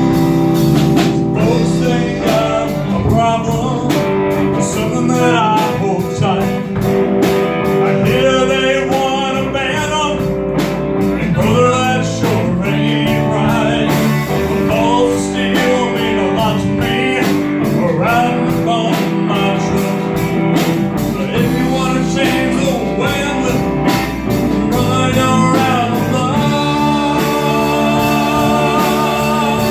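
Live rock band playing with a blues-tinged electric guitar lead bending and wavering over a steady drum beat.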